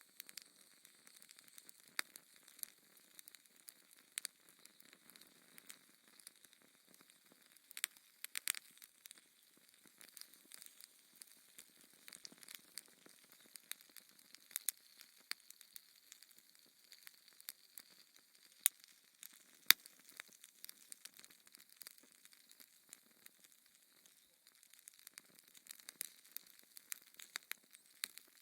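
Fire crackling in a fireplace: irregular sharp pops and snaps over a faint hiss, with a few louder pops about a third and two thirds of the way through.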